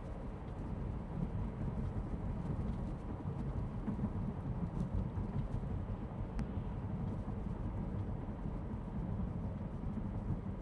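Steady low road and tyre rumble inside the cabin of a moving electric Tesla Model 3, with no engine note. It grows a little louder about a second in.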